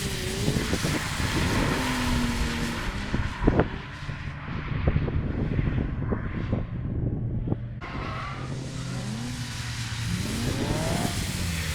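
Drift cars on track, engines revving up and down over heavy tyre noise, with a sharp knock about three and a half seconds in. The sound changes abruptly about eight seconds in, and near the end an engine revs up again.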